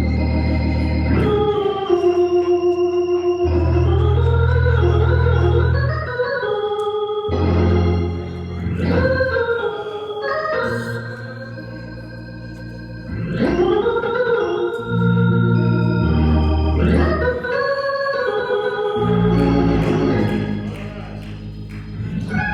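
Organ music: sustained chords over long-held bass notes that change every couple of seconds, with sliding melodic lines played above them.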